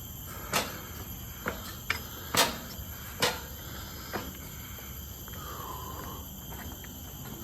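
Footsteps knocking sharply and unevenly, about one a second for the first four seconds, over a steady high drone of insects such as cicadas or crickets.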